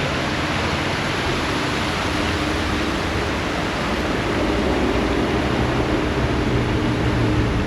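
Steady rushing outdoor noise with a low droning hum that grows a little louder in the second half.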